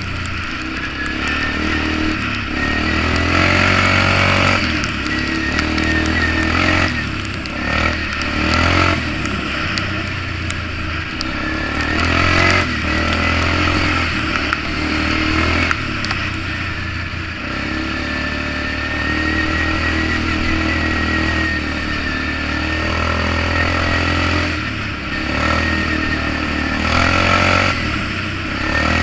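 Polaris Magnum 425 ATV's single-cylinder four-stroke engine running through a DG Performance RCM-II aftermarket muffler while riding, with the throttle opening and easing off again and again.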